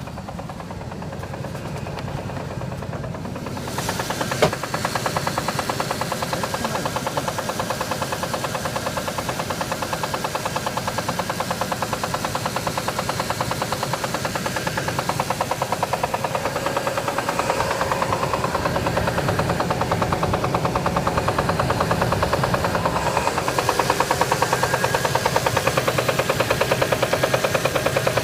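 Audi A6 C5's 2.8-litre V6 petrol engine running with a fast, even knock in time with the engine, getting louder about four seconds in. The owner doesn't know its cause: one shop calls it a connecting-rod knock, another the flywheel.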